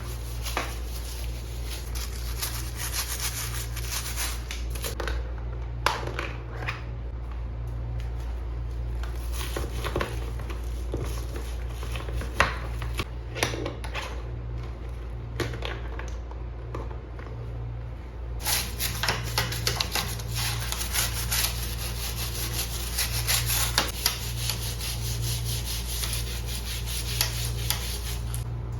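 A brush scrubbing a surface in fast back-and-forth strokes. It pauses for a long stretch in the middle, where there are only a few scattered knocks, then starts again. A steady low hum runs underneath.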